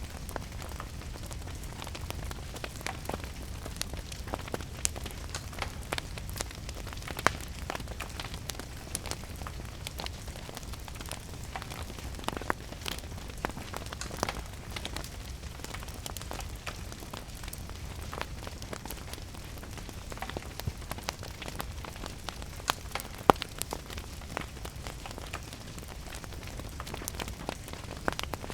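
Wood fire crackling with frequent small pops and a few louder snaps, over a steady hiss of rain and a low rumble.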